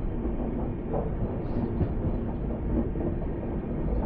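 Train running along the track: a steady rumble with wheels clicking over the rail joints.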